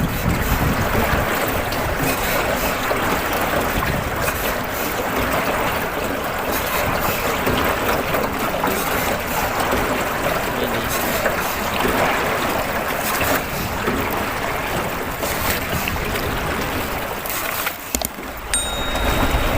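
Steady wash of water and wind noise on a small river rowboat under way, with a brief high tone near the end.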